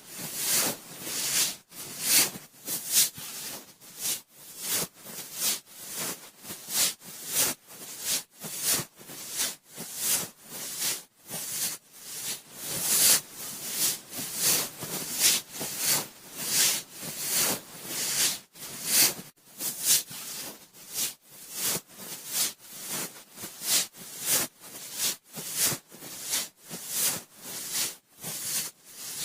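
Cotton swab twirled round and round inside a binaural microphone's ear, giving close, scratchy rustling strokes at about three every two seconds.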